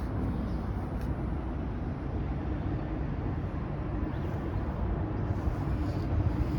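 Steady low rumbling background noise with a faint steady hum.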